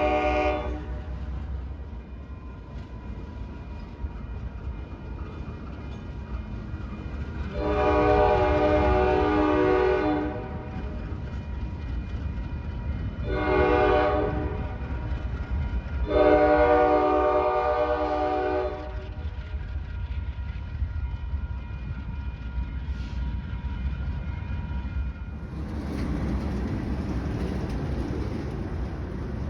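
Horn of a CSX GE ES44 diesel locomotive consist: the tail of one blast, then a long blast, a short blast and another long blast, over the steady low rumble of the locomotives' diesels. A louder rushing rumble comes in near the end.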